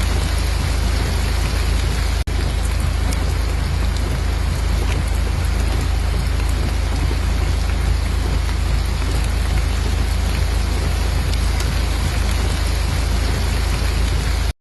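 Steady rain with a deep low rumble beneath it, broken by a momentary dropout about two seconds in, then cutting off abruptly near the end.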